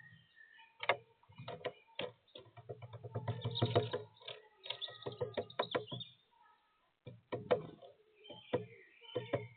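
Woodpecker pecking at sunflower seeds on a bird feeder: irregular sharp taps, with a fast run of pecks a few seconds in.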